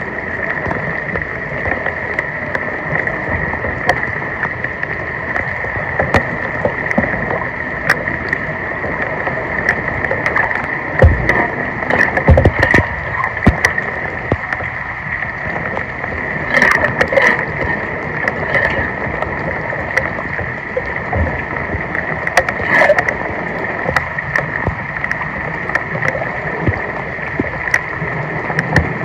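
Floodwater in a street running and gurgling steadily, with several splashes and knocks through the middle.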